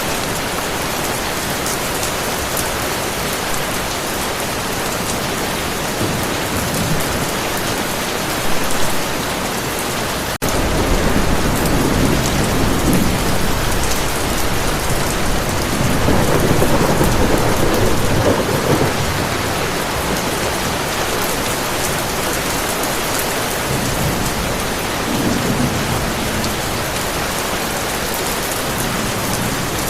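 Heavy rain falling steadily. From about ten seconds in, thunder rumbles and swells over it, fades, and rolls again briefly later on. There is a momentary dropout just before the thunder starts.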